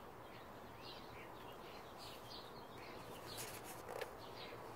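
Small birds chirping faintly and intermittently in the background, with a brief paper rustle about three and a half seconds in as a picture-book page is turned.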